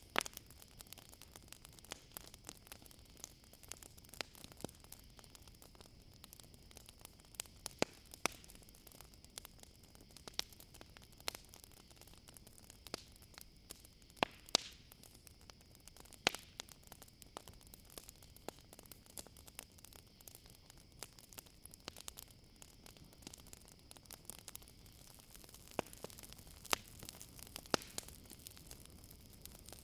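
Campfire crackling: irregular sharp pops and snaps over a soft hiss, a few noticeably louder pops scattered through. A steady high-pitched chirring of crickets runs underneath.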